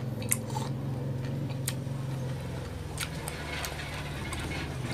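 A person chewing and biting firm green mango slices topped with sautéed shrimp paste, with several sharp crunches and wet mouth sounds, under a steady low hum.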